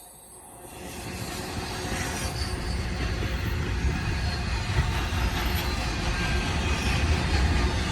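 Long intermodal freight train rolling past, steel wheels on rail with a low rumble that swells in about a second in and keeps building.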